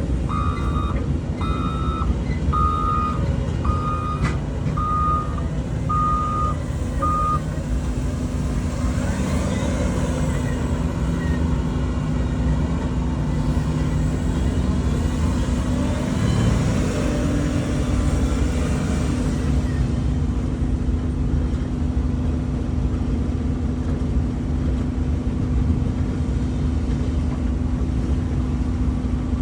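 Backup alarm on nearby heavy equipment beeping about once every three quarters of a second, stopping about seven seconds in, over the steady rumble of a running machine engine. The engine noise swells and fades again midway.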